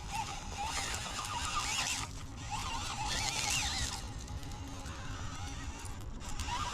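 Brushless motor of a 1/18-scale Furitek FX118 micro rock crawler whining, its pitch rising and falling in short runs as the throttle is worked, over a low rough rumble.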